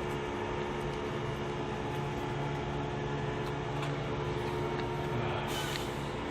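Steady mechanical hum with a few fixed tones over a bed of noise, and a short hiss about five and a half seconds in.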